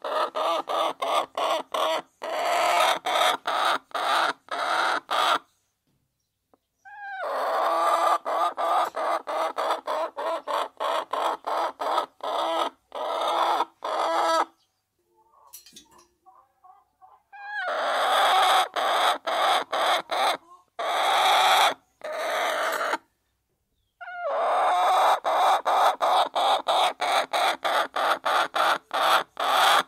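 A flock of hens clucking together in a dense, continuous chorus that cuts out abruptly again and again, with a few gaps of a second or more.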